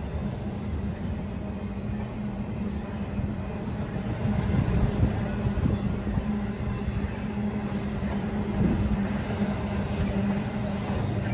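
Intermodal freight train of highway trailers on flatcars rolling past: a steady rumble of steel wheels on rail with a constant hum, a little louder about four seconds in.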